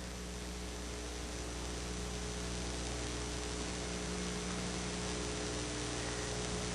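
Steady electrical mains hum with an even hiss underneath: the background noise of the recording, with nothing else happening.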